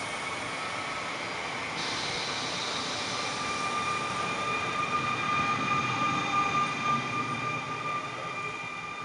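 Alstom Régiolis regional electric train running past the platform: a steady high-pitched whine over the noise of wheels on rail, loudest a little past the middle and fading as the end of the train goes by.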